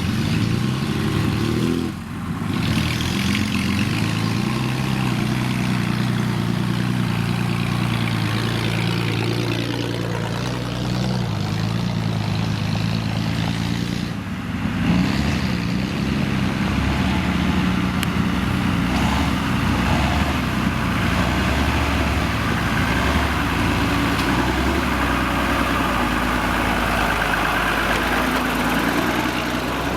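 A vehicle engine running steadily, its pitch shifting up and down as the revs change, with short drops in level about two seconds in and again near the middle.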